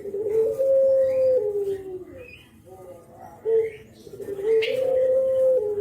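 Brenggolo dove giving its 'kuk geruk' coo twice: a low, hooting phrase with a long held note, repeated about four seconds apart. Faint short chirps of small birds sound between the phrases.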